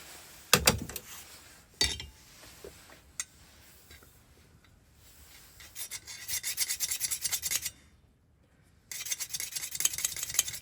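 Metal file rasping across a key blank in two runs of quick strokes, after a couple of knocks near the start: filing away the nickel plating to read the pin marks.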